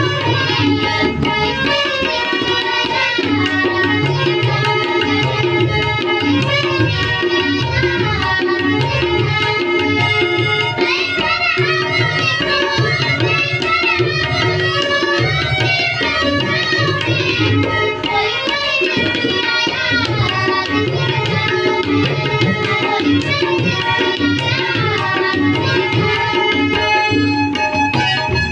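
Tabla playing a steady rhythmic pattern with repeated deep bass strokes, under a wavering ghazal melody.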